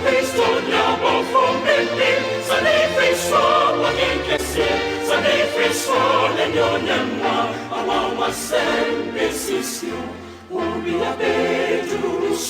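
Gospel music with a choir singing over sustained bass, dipping briefly about ten seconds in.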